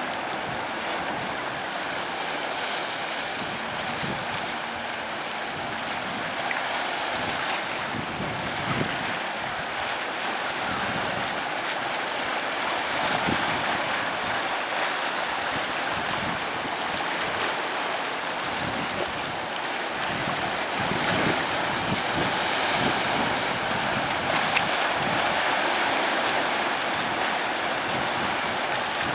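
Sea surf washing steadily onto a sandy beach: a continuous hiss of breaking waves that swells gently, with low thumps of wind on the microphone.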